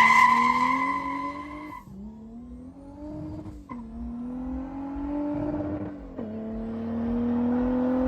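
Car accelerating hard through the gears, its engine pitch climbing and dropping at each upshift. There are about three upshifts, and a high whine or squeal is heard during the first two seconds.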